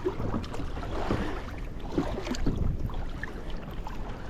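Kayak paddle strokes splashing in the water, a surge about every second, over the steady wash of water against the hull.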